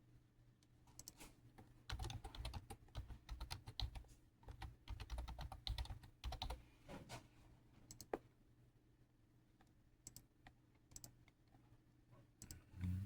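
Quick runs of light clicks and taps, densest in the first half and scattered later, over a faint steady low hum.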